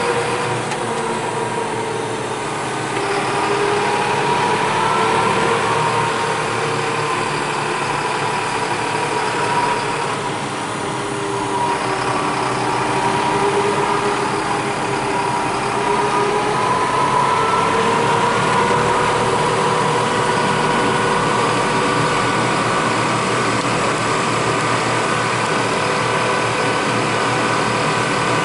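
Fendt 211 tractor with stepless transmission running under way, heard from inside its cab: a steady mechanical drone with a whine that slowly rises and falls in pitch as the engine and drive speed change.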